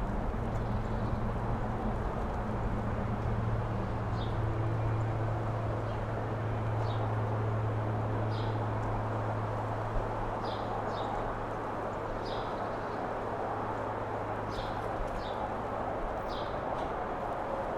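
Mountain-top wind blowing steadily. A bird gives short high chirps about every second or two over it. A steady low hum runs beneath and fades near the end.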